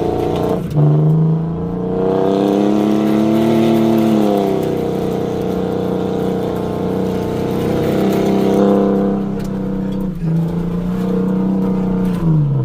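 Pickup truck engine revved hard and held at high rpm while the truck spins donuts. Its pitch jumps up about a second in, sags and climbs again a couple of times, and drops away at the end.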